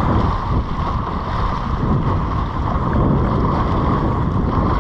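Steady wind buffeting the microphone over the wash of surf.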